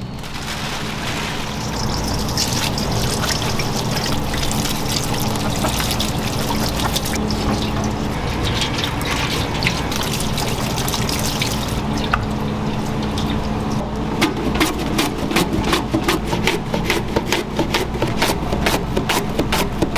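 Liquid trickling and pouring over a steady low machine hum. From about two-thirds of the way through, a fast run of clicks or knocks, several a second, joins it.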